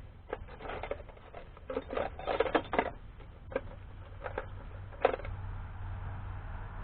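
Metal hand tools and sockets clinking and clattering as they are handled: a run of sharp clicks, densest about two seconds in, with one loud clack about five seconds in. A low steady hum comes in near the end.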